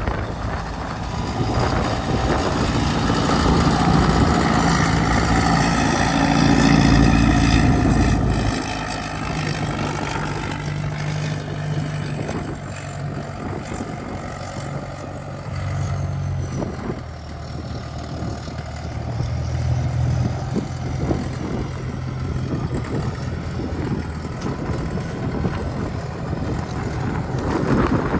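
An engine running, its note changing sharply about eight seconds in and rising and falling a few times after that.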